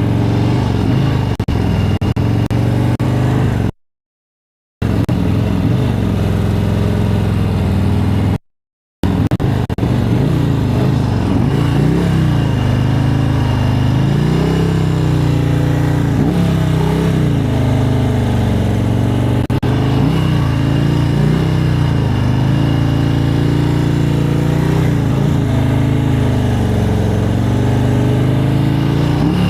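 Motorcycle engine running at low revs, its pitch rising and falling gently as it is ridden slowly through tight turns on the clutch friction zone. The sound cuts out completely twice, briefly, in the first nine seconds.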